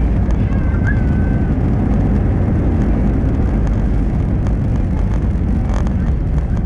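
Steady, loud rumble inside an Airbus A320-214 cabin by the wing: the CFM56 engines and the airframe noise of the aircraft on the ground around landing.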